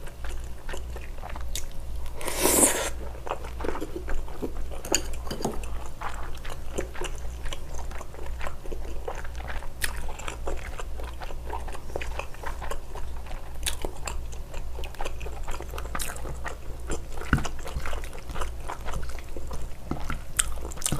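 Close-miked eating of a spicy stir-fry of scallop, octopus, shrimp and gopchang with glass noodles: chewing with many short wet clicks and smacks of the mouth. There is one louder, longer burst about two and a half seconds in, all over a low steady hum.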